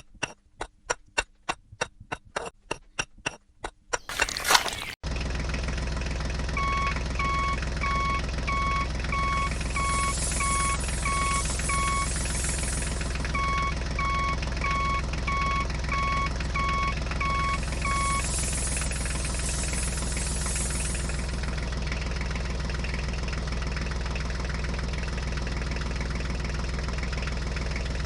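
A quick run of clicks, then a burst of noise, then a heavy vehicle engine that catches and runs steadily at idle. Over the engine, a reversing alarm beeps about twice a second in two runs, and a high hiss comes twice.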